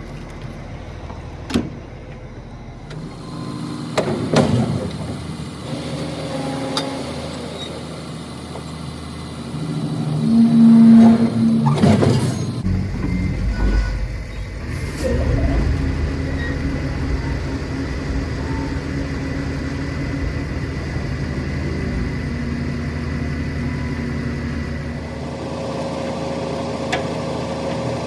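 Diesel winch truck engine running, swelling louder for a couple of seconds about ten seconds in, with a few sharp knocks and clanks in the first few seconds.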